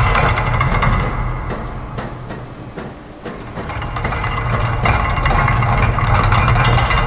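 Layered loops of factory machine sounds, such as gears, ratchets and press strokes: a dense mechanical clatter of rapid ticks over a steady low hum. It fades down to a low point about halfway through, then swells back to full.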